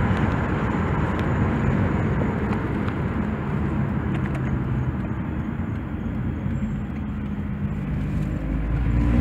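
Car engine running with a steady low exhaust rumble under a noisy wash of outdoor sound; near the end it grows louder.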